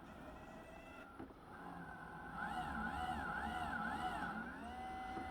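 Roomba S9+ robot vacuum running while stuck, its motors whining as the drive wheels spin freely without traction. About halfway through, the whine wavers rapidly up and down in pitch for a couple of seconds, then settles to a steady tone.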